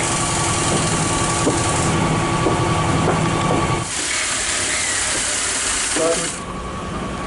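Air hissing over a steady mechanical hum aboard a converted 1938 London Underground tube stock car. The hum cuts off about four seconds in, and a thinner hiss of escaping air carries on for about two seconds more.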